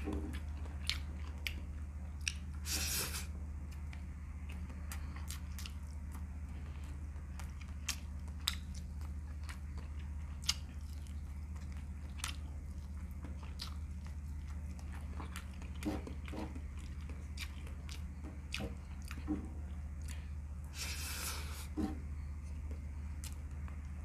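Close-up chewing and biting of a man eating chili chicken and rice with his hands, with scattered short crunches and mouth clicks. Two longer hissing sounds come about three seconds in and near the end, over a steady low hum.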